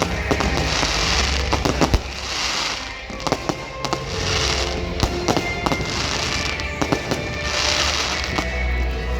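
Fireworks display: repeated sharp bangs of bursting shells with crackling between them.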